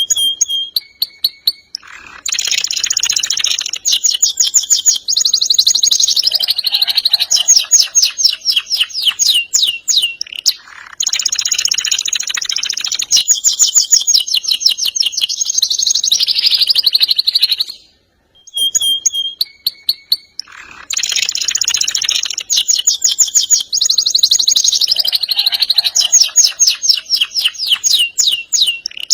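Domestic canary singing long phrases of fast rolling trills, the notes repeated in quick even runs, with brief pauses between phrases and a few short single notes after the pause about two-thirds of the way through.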